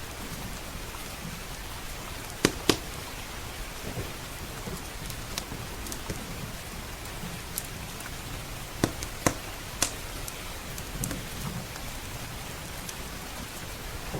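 Steady heavy rain with a low rumble of thunder underneath. A crackling wood fire pops sharply, twice about two and a half seconds in and three times around nine seconds.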